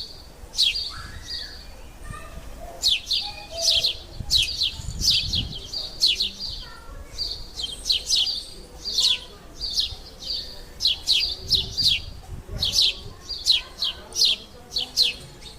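A small bird chirping over and over: quick, high, sharply falling chirps in runs of several a second, some with a short held note.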